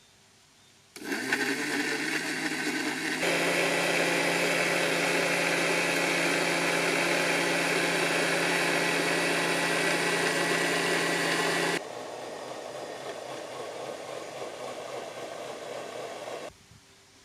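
Electric mixer grinder blending milk, sugar and chocolate. The motor starts about a second in and runs louder and steadier from about three seconds. It drops to a quieter sound about twelve seconds in and stops shortly before the end.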